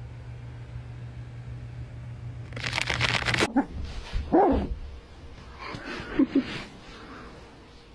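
A pet animal's short whining cries, one about halfway through and a couple more a little later, over a steady low hum, with a brief rustling noise just before the first cry.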